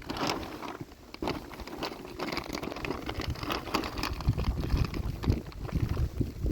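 Irregular rustling and crackling, with low wind buffeting on the microphone growing stronger in the second half.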